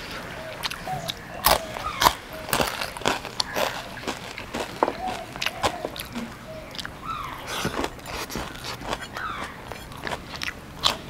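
Close-up eating sounds: a person biting and chewing crunchy food, many sharp irregular crunches and clicks.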